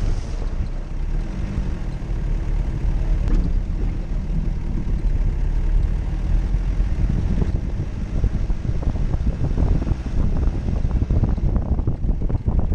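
Jeep Cherokee engine running while driving off-road, a continuous deep rumble with a faint steady engine tone in the first few seconds.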